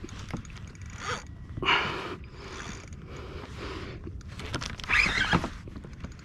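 Fishing reel ratcheting in short spurts while a hooked fish is fought from the kayak.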